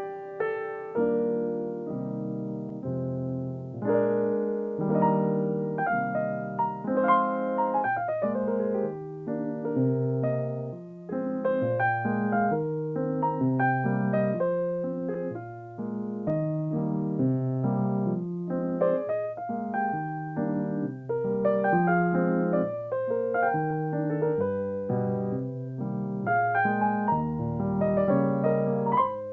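Solo piano playing continuously, sustained chords under a melody line.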